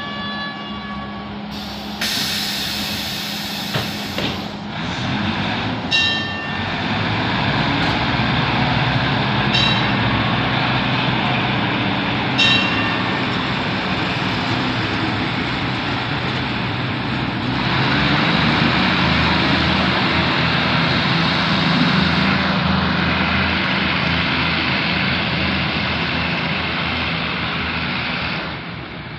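Diesel passenger train pulling out of a station: a sharp hiss of air brakes releasing about two seconds in, then a steady engine drone and wheels rolling over the rails with a few sharp metallic clicks. It grows louder about two thirds of the way through and drops away near the end as the train leaves.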